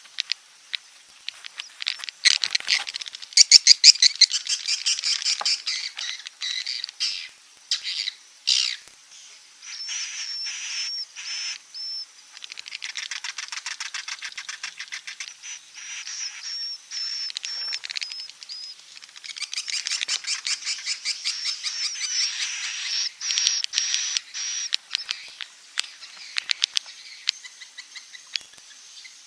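Swiftlets twittering in long, high-pitched chirping runs broken by rapid trains of clicks, in bursts with short pauses. This is the 'inap' (roosting) call used in swiftlet farming to draw the birds in to roost.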